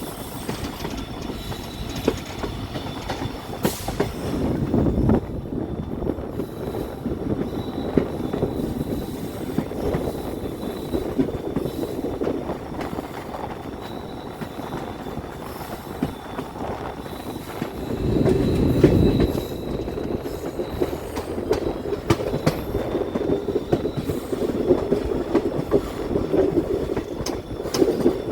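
Passenger train running along the track, wheels rumbling and clicking over the rail joints, with a faint high wheel squeal on and off. The rumble grows louder for a second or two about two-thirds of the way through.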